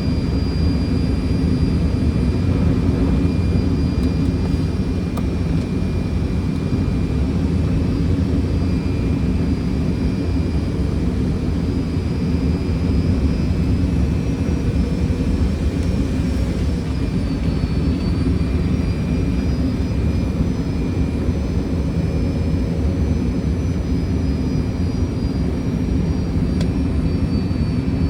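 Steady flight-deck noise of a Fokker 100 on final approach: a dense rumble of airflow and Rolls-Royce Tay turbofans. A faint high whine runs through it and dips slightly in pitch a little past halfway.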